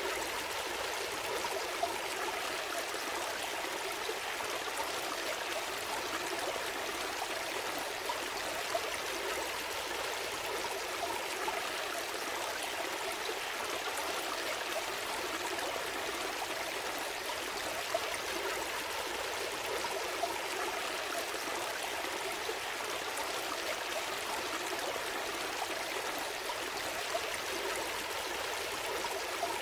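Gentle stream flowing steadily, water babbling and trickling with small splashes here and there.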